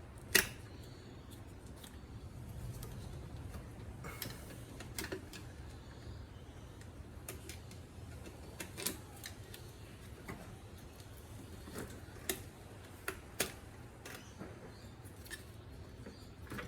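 Scattered sharp clicks and light plastic knocks at irregular intervals as electrical sensor connectors are unclipped from the engine wiring loom, over a low steady hum.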